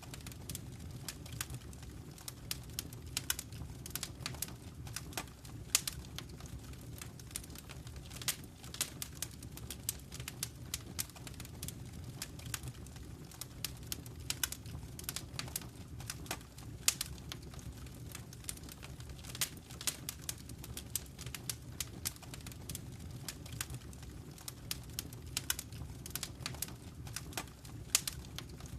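Wood fire crackling in a fireplace: frequent, irregular sharp pops and snaps over a low, steady rumble.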